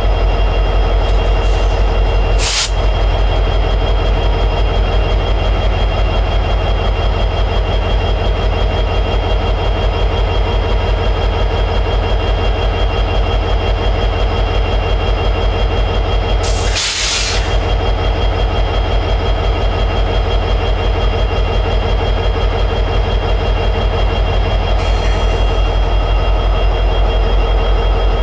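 EMD 710G3B diesel prime mover of an SD60 locomotive running steadily in high idle, a deep even throb. Short bursts of hiss cut in about two seconds in and again around seventeen seconds, with a fainter one near the end.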